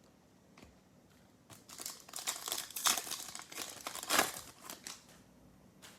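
Crinkling plastic as trading cards and their pack are handled: an irregular rustle that starts about a second and a half in, peaks twice, and fades out after about five seconds, with one more brief rustle near the end.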